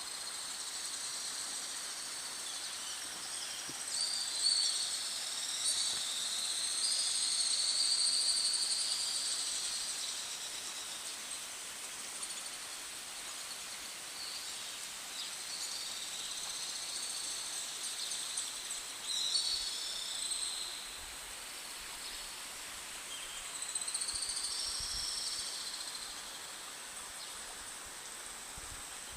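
Birds singing in several bursts of warbling song, over a steady high-pitched insect buzz.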